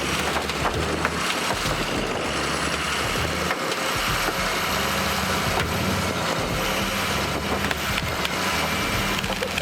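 Lifted Ford F350 diesel truck's engine running steadily, with a few scattered cracks and crunches.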